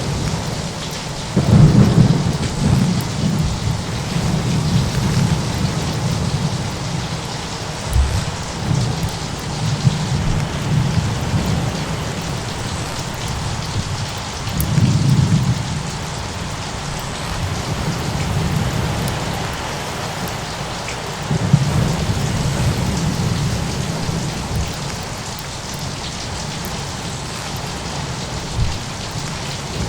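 Steady heavy rain with thunder rumbling low at intervals, three swells, the loudest about two seconds in.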